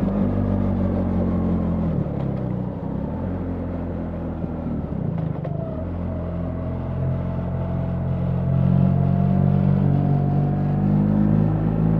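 BMW R 1300 GS boxer-twin engine running under way. It eases off about two seconds in, picks up again around six seconds, and pulls louder from about nine seconds.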